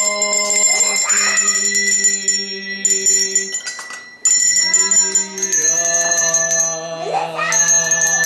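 Bells ringing with steady, long-lasting high tones, over held low musical notes that change pitch about halfway through.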